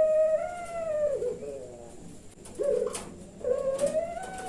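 Puter pelung dove cooing: long drawn-out coos, each a held note that bends and drops lower at its end, with a short coo between two long ones.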